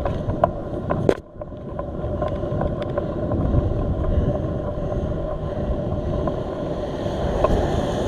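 Wind rushing over the microphone of a bicycle-mounted camera, mixed with road and traffic noise from a car coming up behind the cyclist. A sharp click about a second in, then the level briefly drops before the wind and road noise build back up.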